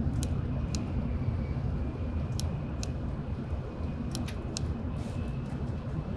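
Steady low rumble of an N700S Shinkansen bullet train running, heard inside the passenger cabin, with several light sharp ticks on top.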